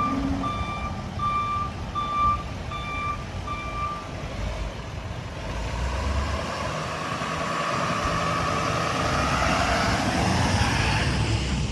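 A truck's reversing alarm beeping about every two-thirds of a second, six times, over a low engine rumble. After that a rushing noise builds and rises to near the end.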